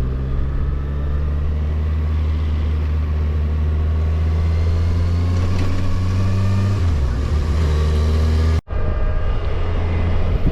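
Kawasaki Versys motorcycle engine running steadily on the move. Its note drops a step about two-thirds of the way through, and the sound breaks off for an instant shortly after.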